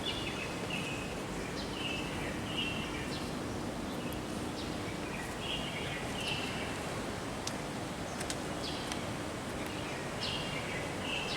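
Steady rush of running water, with short high bird calls that come in pairs every few seconds.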